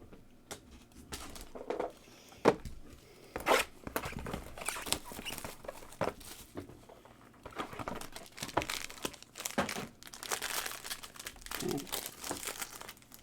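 Plastic packaging of a trading-card box being torn open and crinkled by hand, with a few sharp snaps early on and a longer stretch of crinkling near the end.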